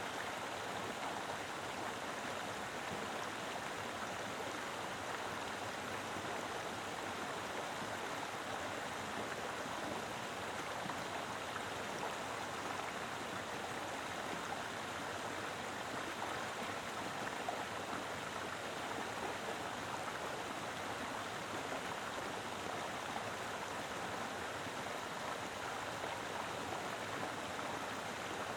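Mountain river flowing: a steady, full rush of water over rocks, even throughout with no distinct splashes.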